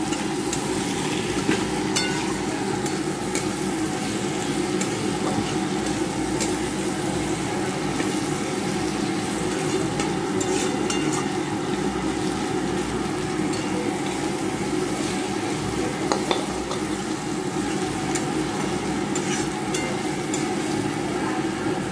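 Potato chunks frying with spice paste in a kadai, sizzling steadily as a flat spatula stirs and scrapes them around the pan, with a few light clicks of the spatula against the metal.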